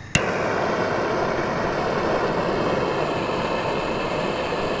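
A handheld gas torch lit with a click, then its flame burning with a steady rushing noise, heating the motorcycle's bent footrest so it can be bent back.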